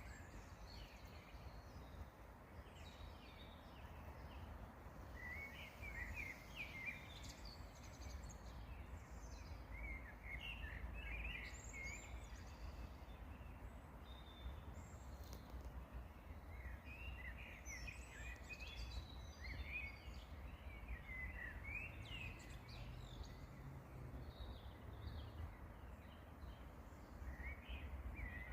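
Songbirds singing faintly in short bursts of chirps and trills, with gaps between, over a steady low rumble.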